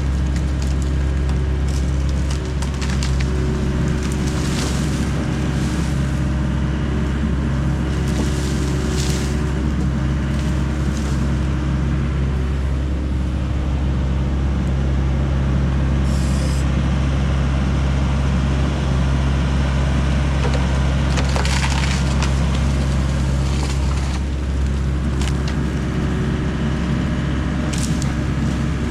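John Deere 60G excavator's diesel engine running steadily, with wood cracking and splintering several times as branches and trees give way.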